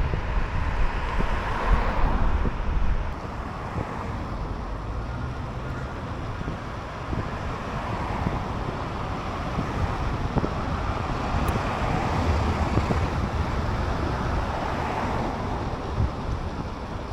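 Wind buffeting the microphone of a moving bicycle, a heavy rumble for the first few seconds that then eases to a steadier rush. Road traffic swells and fades a few times as vehicles pass.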